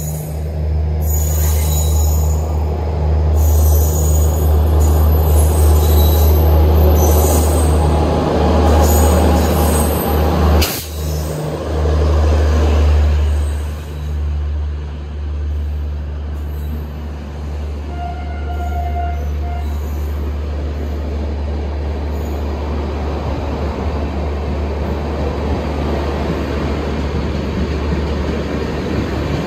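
Rajdhani Express train running through a station at speed. It is loudest over the first dozen seconds, then its LHB coaches roll past with a steady deep rumble and wheel noise on the rails. There is one sharp clack about eleven seconds in.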